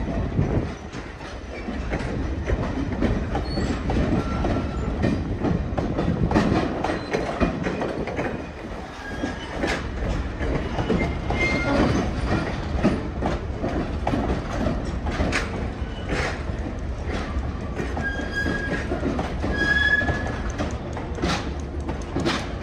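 Heritage passenger cars rolling slowly past on the rails: a steady low rumble with irregular clicks of the wheels over the track and several short, high wheel squeaks.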